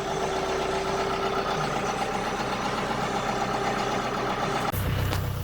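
Diesel tractor engine idling steadily. Near the end the sound changes abruptly to a deeper, heavier engine hum.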